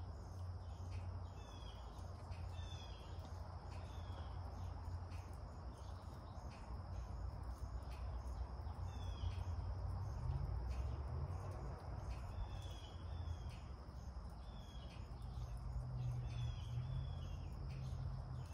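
Small bird chirping in short, high, falling chirps, repeated irregularly every second or so, over a steady low hum of background noise.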